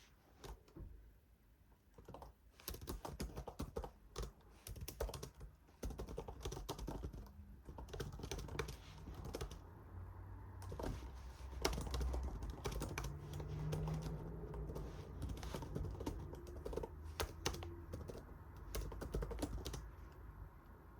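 Typing on a computer keyboard: irregular runs of key clicks with short pauses. A low hum runs underneath and grows louder about six seconds in.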